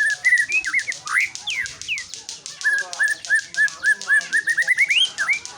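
White-rumped shama singing: loud, clear whistled notes that glide up and down, turning in the second half into a quick run of short repeated rising whistles, about four a second, over a fast high rattle. The song stops just before the end.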